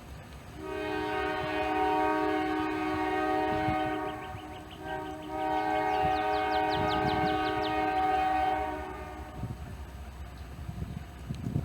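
Diesel locomotive's multi-chime air horn sounding a steady chord: one long blast, a brief short toot, then a second long blast.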